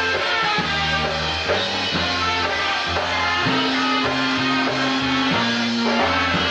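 Live polka band playing a tune, with a bass line changing notes under sustained melody notes and a drum kit keeping the beat.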